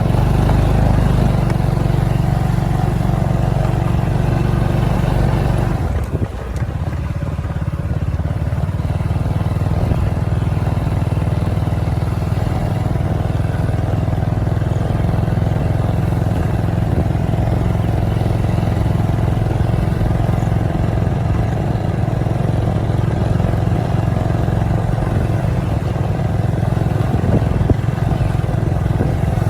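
Motorcycle engine running steadily on the move, with a short drop in engine sound about six seconds in before it settles back to an even run.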